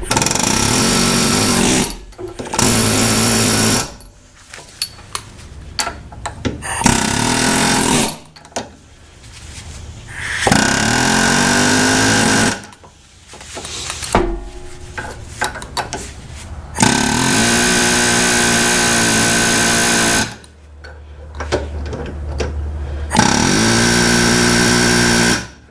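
Pneumatic air hammer rattling against a rusted shaft and nut in repeated bursts of one to three seconds, each running up in pitch as it starts. It is pecking at the joint to break the rust loose so penetrating oil can soak in.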